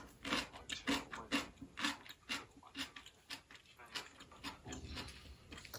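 Crunchy chewing, about two to three crunches a second, loudest in the first two seconds.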